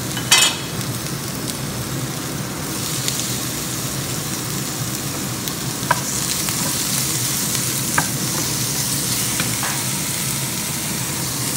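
Diced meat and chopped garlic sizzling in oil in a nonstick frying pan while being stirred with a wooden spatula. There is a sharp clack about half a second in, and a few light knocks later on as the spatula hits the pan.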